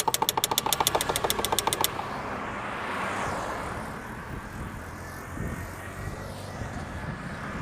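Starting attempt on a 2004 Toyota Camry: rapid, even clicking at about ten a second from the starter for about two seconds, then the engine running steadily.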